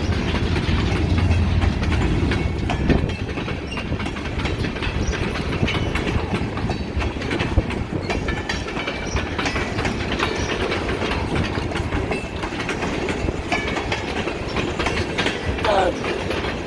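Train passing close by: a steady low engine drone for the first few seconds, then the continuous rumble and clickety-clack of railcar wheels running over the rail joints.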